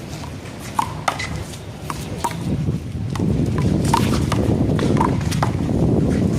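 Handball rally: the small rubber ball smacked by hands and off the wall, about eight sharp slaps at an irregular pace. A low rumble builds from about three seconds in.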